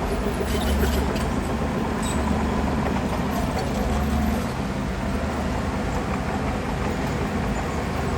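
Heavy diesel earthmoving machine running steadily with a deep engine drone, with a few short clanks or knocks in the first two seconds.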